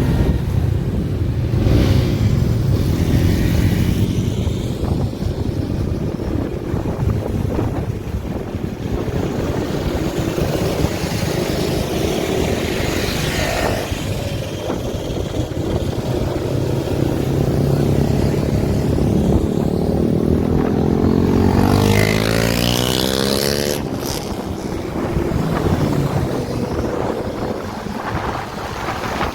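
Motorcycle engine running on the move, with wind noise over the microphone. Its pitch rises about twenty seconds in as it accelerates.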